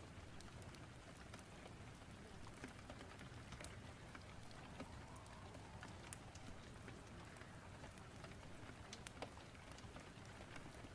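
Rain-storm and fireplace ambience: a steady, faint hiss of rain with scattered sharp pops and crackles from a wood fire.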